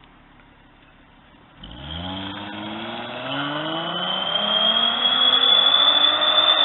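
Car engine accelerating hard in one gear, its pitch climbing steadily, with a high, thin whistle rising and getting louder alongside it, like turbo spool.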